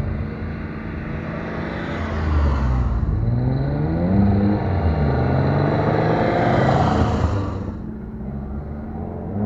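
Engine of a modified classic Japanese car with a loud exhaust, revving hard: the pitch climbs, drops and climbs again several times, then falls away about eight seconds in.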